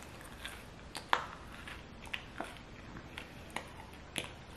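Chewing a bite of old, crusty pizza, with several short sharp crunches; the loudest comes about a second in.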